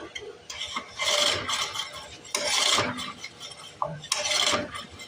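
Three pulls on the starter rope of a 1952 Briggs & Stratton Model 6 engine, each a short rasping whoosh about a second and a half apart, as the engine turns over with its spark plug out.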